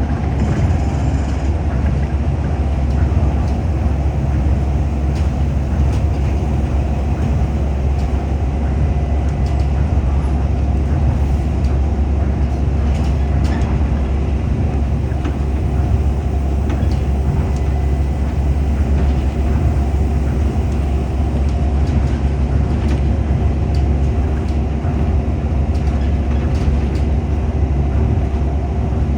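Tokyo Monorail train running at speed, heard from inside the car: a steady low rumble of its rubber tyres on the guideway beam and its drive, with faint clicks here and there.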